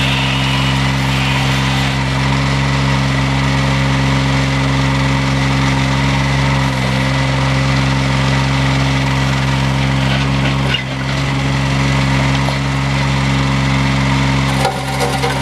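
Engine of a Lineman TMX towable backhoe running at a steady speed, with a steady whine over it. Near the end a scraping, grating sound comes in over the engine.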